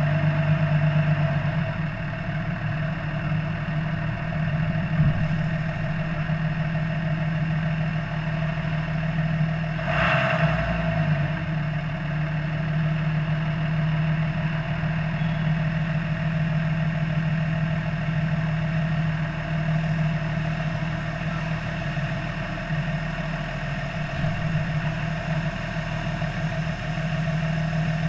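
Car engine running steadily at low revs while the car creeps along at walking pace, with a single short knock about ten seconds in.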